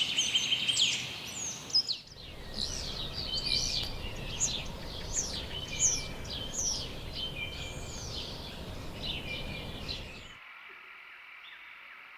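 Several wild birds chirping and whistling in quick, overlapping calls over steady background noise. The calls cut off suddenly near the end, leaving a faint steady high hum.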